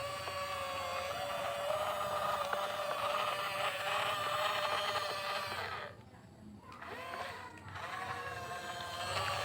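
Whine of the small electric motors and gearboxes of radio-controlled construction models, a steady high hum. It stops for about two seconds around six seconds in, with a short burst in between, then starts again.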